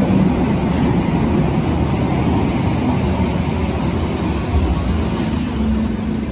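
Berlin U-Bahn large-profile train running, a steady loud rumble of wheels and running gear that eases slightly toward the end as a low steady hum comes in.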